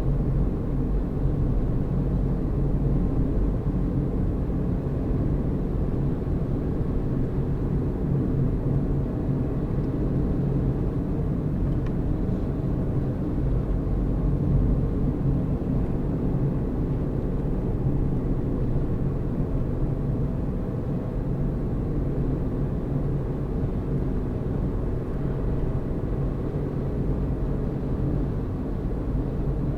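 Car driving at a steady speed: a constant low rumble of engine and road noise with a faint steady hum, unchanging throughout.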